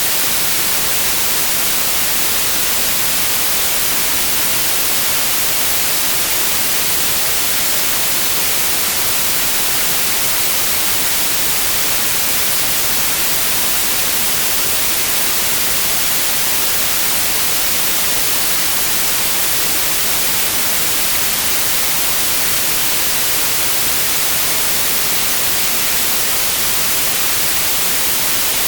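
Steady white noise: an even, unchanging hiss across the whole range, with no pitch or rhythm.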